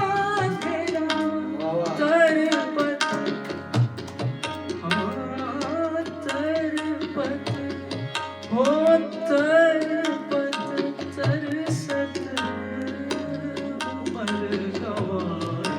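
Hindustani light-classical music: tabla strokes keep a quick rhythm under a melodic line of sliding, ornamented phrases, over steady low held notes.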